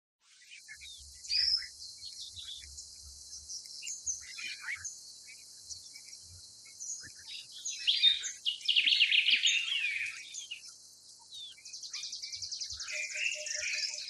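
Birds chirping and calling in short, high, shrill notes. There is a loud burst of overlapping calls about eight seconds in, and a rapid trill toward the end.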